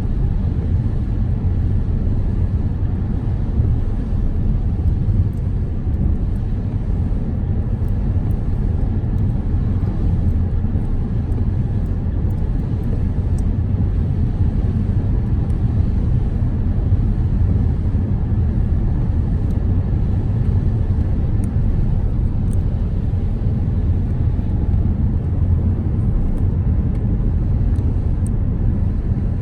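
Car driving at a steady speed: an even low road and engine rumble that holds unchanged throughout, with a few faint light ticks scattered over it.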